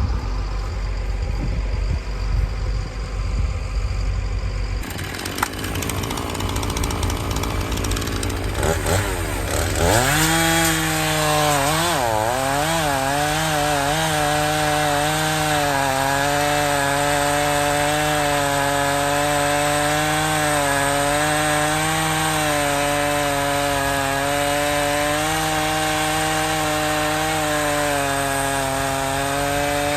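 Two-stroke chainsaw bucking a felled maple log. Low rumble for the first few seconds, then the saw revs up near the middle and holds at cutting speed, its pitch dipping slightly as the bar works through the wood.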